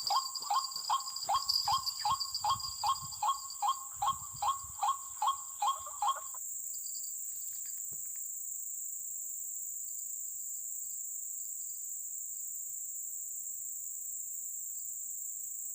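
A white-breasted waterhen's call: the same short note repeated quickly, about two or three a second, stopping about six seconds in. Insects keep up a steady high buzz throughout.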